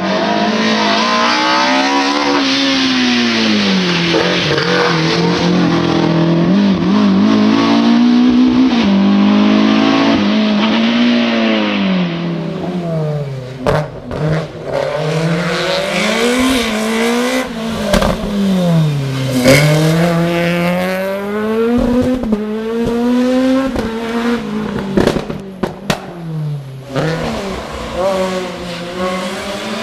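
Racing-car engines at full race pace on a hill climb, revving hard and dropping back again and again as they accelerate out of bends and brake into the next, with sharp cracks in the second half.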